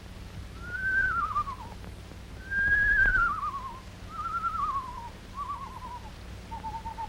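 Screech owl calling: four quavering whinnies that slide down in pitch, then an even, steady trill near the end.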